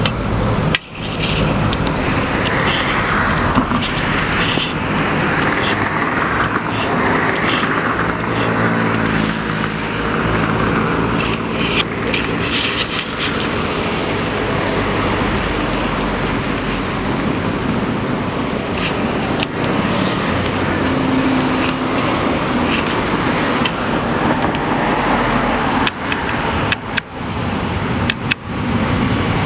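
Jet airliner taking off, its engines running at high power in a loud, steady rush, with engine tones shifting through the first ten seconds or so.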